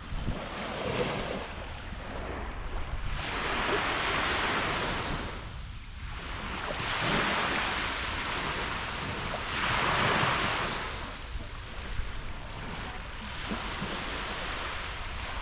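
Small waves breaking and washing up on the beach, the surf rising and falling every few seconds, with a low wind rumble on the microphone.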